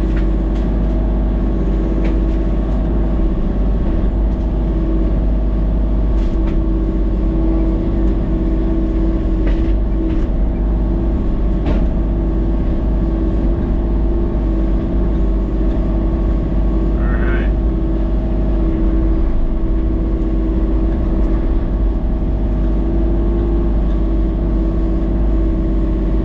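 An engine running steadily at a constant speed, with a low rumble and a steady hum.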